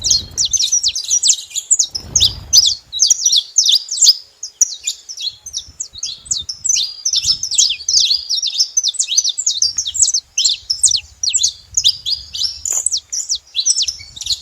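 Saffron finches chirping incessantly, a dense stream of quick, high, overlapping notes.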